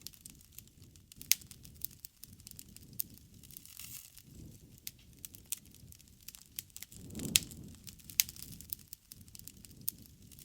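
Wood fire crackling: irregular sharp pops and snaps over a low rushing of the flames, with a louder swell and the strongest pop about seven seconds in.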